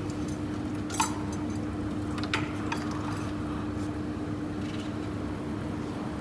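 A few sharp metallic clicks and clinks of hand tools on engine parts, about one, two and a half and three seconds in, over a steady hum.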